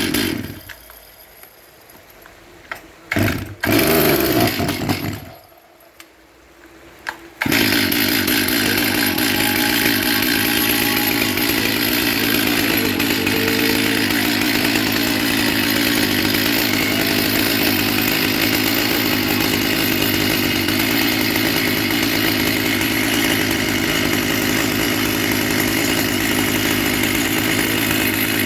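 Stihl MS 361 two-stroke chainsaw engine cutting out, firing briefly twice, then starting again about seven seconds in and running steadily at a constant speed.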